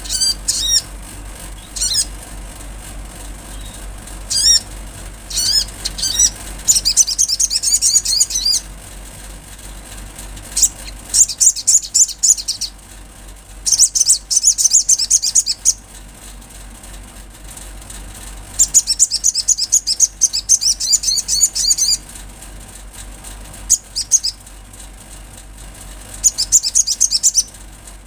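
Olive-backed sunbird singing: high, rapid twittering trills in bursts of one to three seconds, with short single chirps between them. A faint steady low hum runs underneath.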